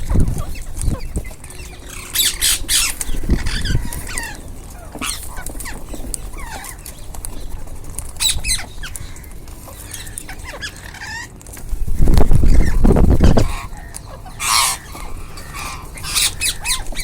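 A group of ringneck parrots giving short, harsh squawks and calls at intervals. A loud low rumble lasting about a second and a half comes about twelve seconds in.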